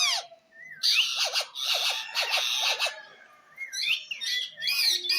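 Indian ringneck parakeet calling: a run of loud, harsh squawks lasting about two seconds, then after a brief pause a series of shorter rising chirps.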